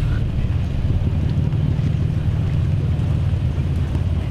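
Toyota Land Cruiser Prado 150 rally car idling with a steady, rough low rumble, with wind buffeting the microphone.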